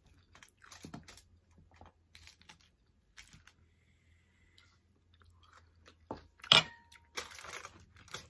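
Mouth chewing and crunching on crisp tortilla-chip nachos with ground beef, lettuce and cheese, in short scattered bursts. The sharpest and loudest crunch comes about six and a half seconds in.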